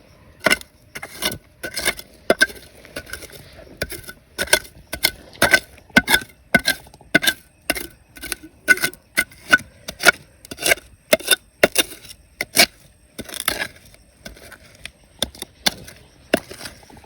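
A digging tool striking rock and gravel again and again, about two sharp strikes a second. The strikes thin out to a few scattered ones near the end.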